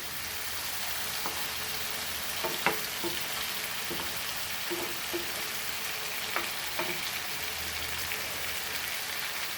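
Food sizzling steadily in hot oil in a pan on high flame, with a few scattered knocks of a spoon or spatula against the pan as it is stirred.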